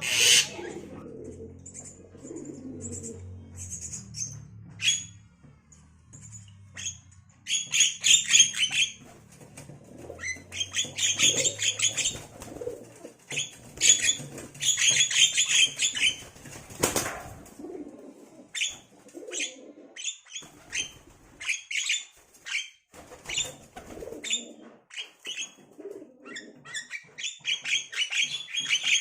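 Myna chicks calling in fast rasping bursts, rising and falling in repeated bouts as they beg to be fed. There is a single sharp knock or flutter about seventeen seconds in.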